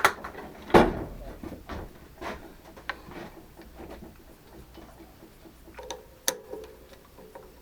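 Scattered knocks and light clicks from tools and material being handled on a workbench, the loudest knock about a second in.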